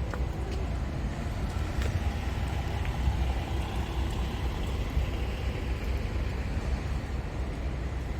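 Scania G500 truck's diesel engine running steadily.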